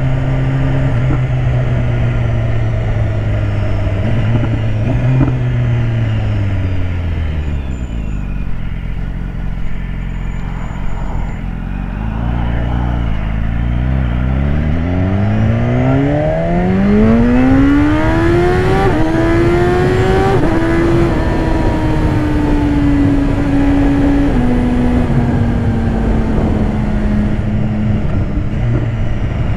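BMW S1000RR inline-four engine under way with wind rush: the engine note falls to a low, slow note in the first half, then climbs in one long rising pull for about six seconds as the bike accelerates, and afterwards slowly drops back as it eases off.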